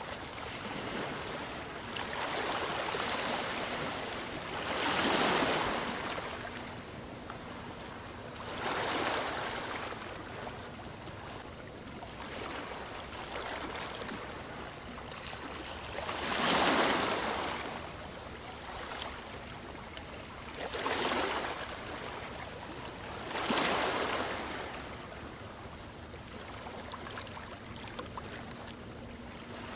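Sea waves washing onto a shore: a steady hiss with a surge every few seconds as each wave breaks, the loudest about halfway through.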